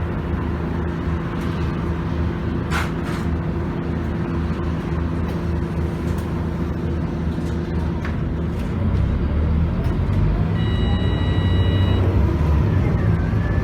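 Scania DC9 five-cylinder diesel engine of a city bus running steadily, then growing louder from about nine seconds in as it pulls harder. A single knock about three seconds in, and an electronic beep lasting over a second about eleven seconds in.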